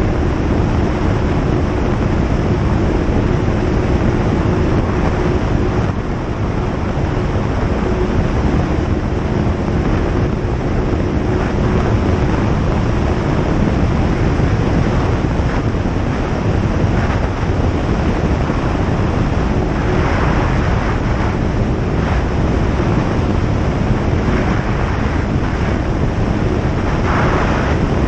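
Single-engine light airplane running steadily, its engine and propeller noise mixed with a constant rush of wind.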